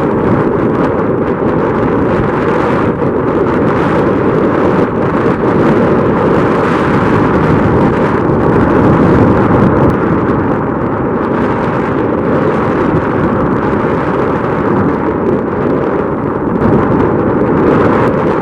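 Strong wind buffeting the microphone: a loud, continuous, gusting rumble.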